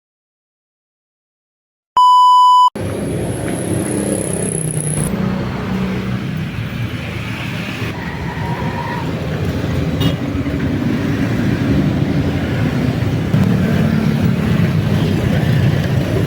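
Dead silence for about two seconds, then a short, loud electronic beep, then a motorcycle's engine and road noise as it is ridden along steadily.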